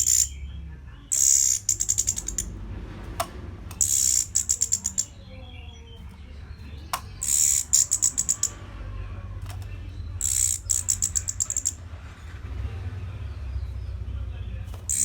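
Orange-headed thrush singing a simple repeated phrase: a high note followed by a quick run of short, rapid notes, coming about every three seconds, over a low steady hum.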